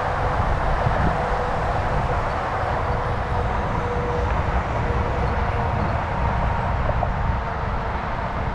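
Steady rushing noise of a moving bicycle ride: wind on the microphone and tyres rolling on pavement.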